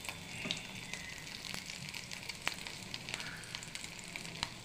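Breadcrumb-coated rice cutlets shallow-frying in hot oil in a pan: a steady sizzle with scattered sharp pops and crackles.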